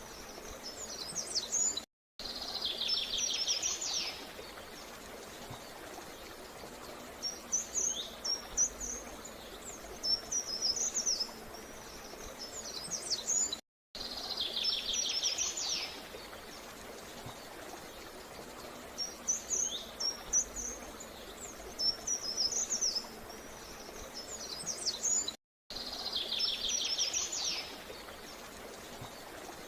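Birds singing: short high chirps and twittering phrases, with a buzzy trilled phrase, over a steady low background hiss. The same stretch of song repeats about every 12 seconds, each repeat starting after a brief silent gap.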